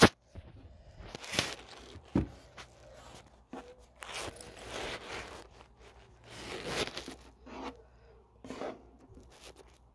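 Close-up eating sounds of a person eating rice by hand: a sharp knock at the very start, then irregular bursts of chewing and mouth noise.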